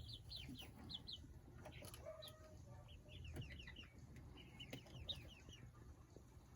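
A flock of young chickens peeping faintly in quick runs of short, falling chirps.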